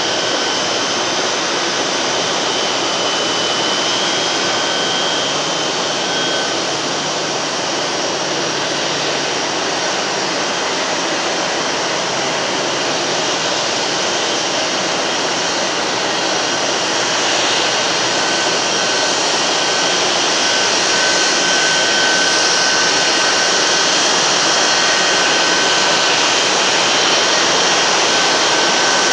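Jet aircraft turbine running steadily on the ground: a continuous loud rush with a steady high-pitched whine, growing a little louder about two-thirds of the way through.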